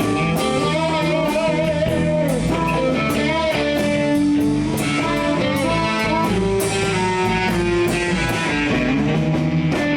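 Live blues band playing an instrumental passage: guitar lines with bending notes over bass and drums, with regular cymbal strokes keeping the beat.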